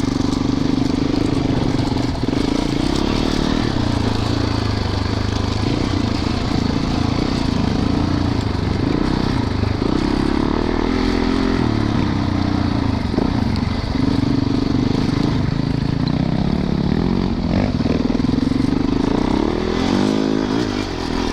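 Four-stroke dirt bike engine running under way, its pitch rising and falling with the throttle, most noticeably around the middle and again near the end.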